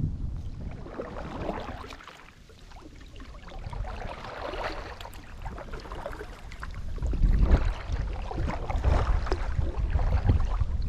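Kayak paddle strokes dipping and splashing in the water, with water lapping around the hull in irregular swells. A low rumble comes in about seven seconds in and is the loudest part.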